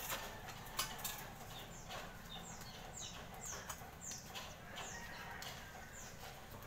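A bird chirping: a run of short, high, falling chirps, about two a second. A few sharp knocks come in the first second.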